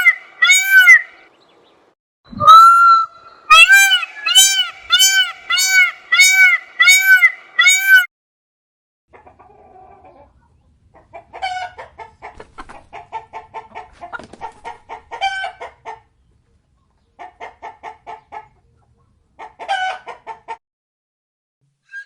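Chickens calling: a loud run of evenly spaced calls, about two a second, broken once by a longer call. From about nine seconds in there is quieter, rapid clucking in short bursts.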